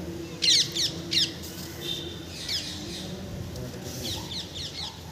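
Bird calls: groups of quick, sharply falling chirps, the loudest a few rapid ones about half a second to a second in, with more around the middle and near the end.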